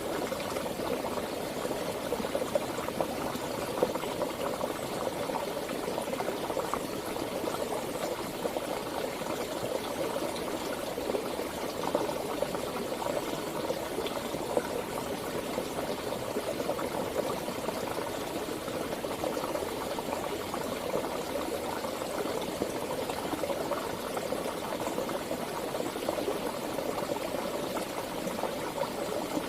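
Stream or river flowing, a steady rush of moving water that does not change.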